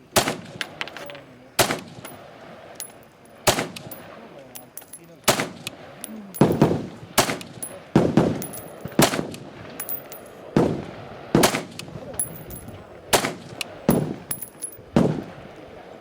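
Rifle shots fired one after another at a steady pace, about fourteen sharp cracks, each one to two seconds apart, coming closer together in the middle.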